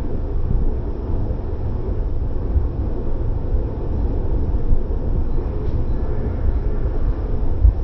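Express train hauled by a WDM3A diesel locomotive running along: a steady, heavy low rumble that carries on without a break.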